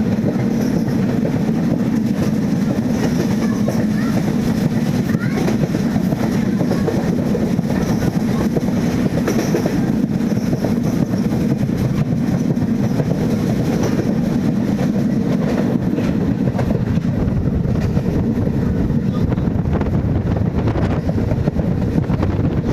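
MEMU electric multiple-unit train running along the track: a loud, steady rumble of wheels and running gear on the rails, with no horn.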